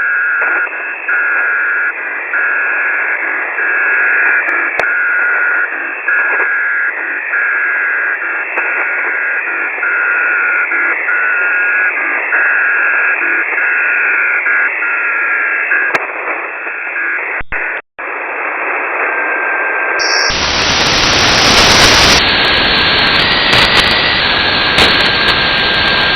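Shortwave radio static from a web-based SDR receiver, with a steady mid-pitched tone keyed on and off over the hiss. About two-thirds of the way through the sound drops out briefly, then returns as fuller, harsher static with occasional short tones.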